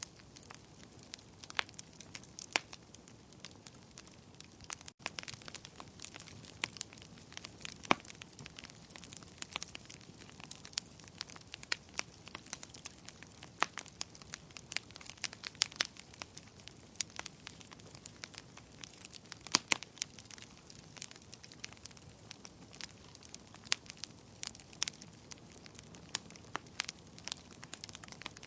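Fire crackling in a fireplace: irregular sharp pops and snaps over a soft hiss, with a brief dropout about five seconds in.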